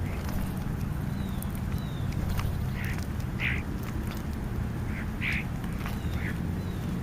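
Birds calling: about five short calls, in two clusters around the middle, over a steady low background rumble.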